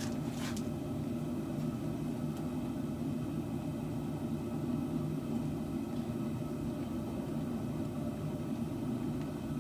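A steady low mechanical hum, like a motor running, with no clear strokes or rhythm.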